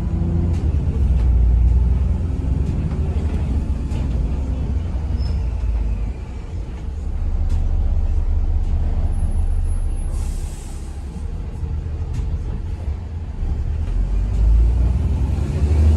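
Diesel engine of a double-decker bus running with a steady low rumble, and a short air hiss a little past the middle, typical of the air brakes or doors.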